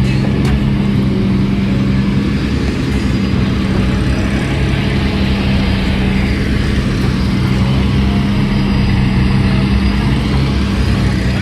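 Car engine running at a steady speed, a loud, even low drone with no revving.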